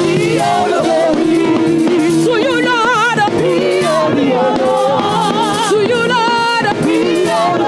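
Live gospel praise music: a singer's voice with wide vibrato over steady band accompaniment.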